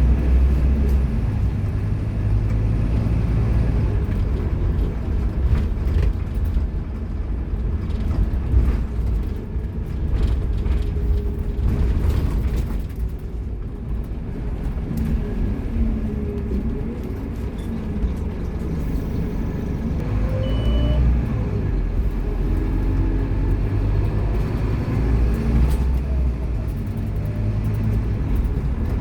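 Scania K230UB Omnilink single-deck bus's five-cylinder diesel engine running, its note rising and falling several times, with a quieter spell in the middle.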